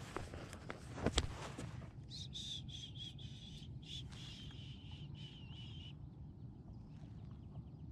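A few knocks in the first two seconds, one louder about a second in. Then a bird call: a high, wavering call that lasts about four seconds and stops abruptly. A low hum runs underneath throughout.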